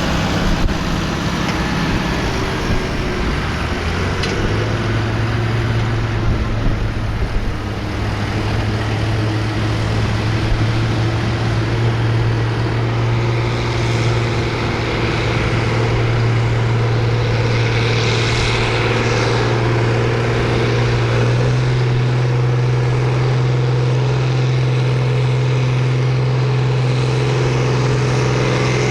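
Farm tractor engine running steadily at high revs, its pitch stepping up about four seconds in and again about twenty-one seconds in.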